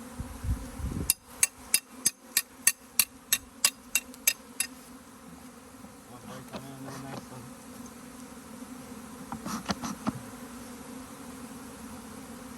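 A honeybee swarm buzzing as a steady low hum. About a second in comes a quick run of about a dozen sharp taps, roughly three a second, lasting some four seconds; a few more taps come near the ten-second mark.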